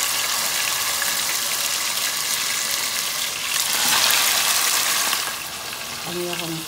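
Chicken frying in hot oil, a steady sizzle that swells louder about three and a half seconds in as more raw chicken pieces are tipped into the oil, then eases off.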